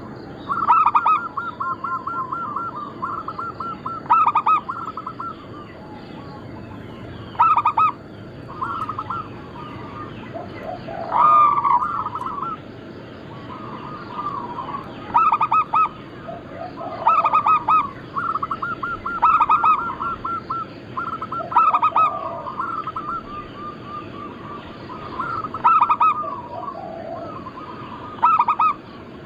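Zebra dove (perkutut) cooing: phrases of quick, rapidly repeated notes, one after another about every two to four seconds.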